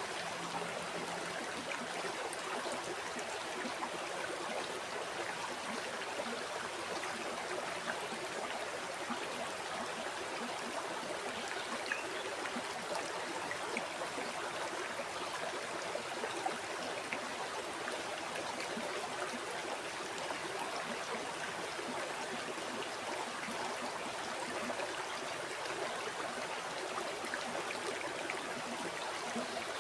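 A river flowing over stones: a steady rush of water with small splashes and gurgles scattered through it.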